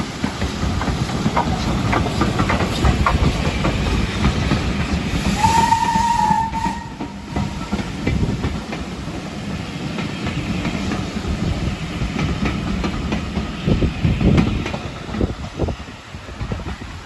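Steam train running, with a steady rumble and the clatter of wheels over rail joints. A single steady whistle blast starts about five seconds in and lasts about a second and a half.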